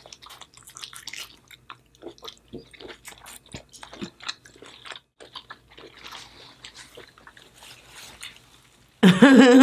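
Close-miked wet biting and chewing of sauce-coated seafood: irregular mouth clicks, smacks and squelches. A loud voice breaks in near the end.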